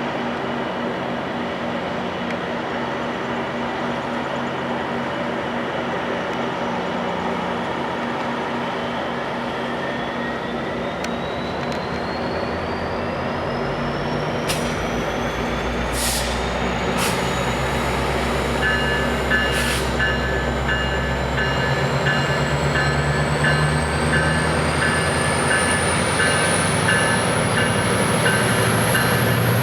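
Diesel commuter train pulling out: the locomotive's engine is running and building under load, its low rumble growing from about halfway, with a whine that rises steadily in pitch as the train gathers speed. A few short clanks come through the middle, and in the last third a regular pulsing ding joins.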